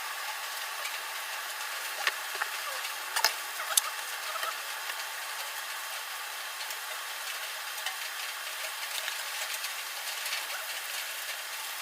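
Steady hiss of heavy rain falling, with a few sharp drip-like clicks about two and three seconds in and faint ticks scattered through.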